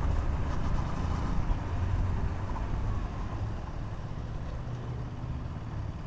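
Low rumble of a KTM Duke 200's single-cylinder engine and wind on a helmet action-camera mic while riding, easing off a little about halfway through.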